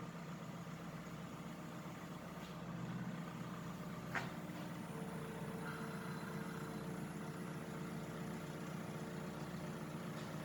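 Diesel engine of a Manitou telehandler idling steadily, with a single light knock about four seconds in and a higher hum joining about halfway through.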